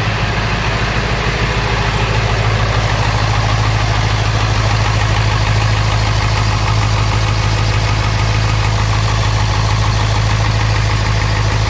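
Ford 7.3L Power Stroke V8 turbo-diesel idling steadily, a little choppy, the sign of a cylinder not yet firing evenly.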